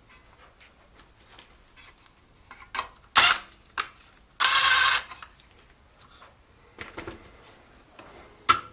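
Hand tools working the muffler bolts on a small engine: light clicks and clinks, a sharp metallic clank about three seconds in, and a steady rasp of about half a second shortly after.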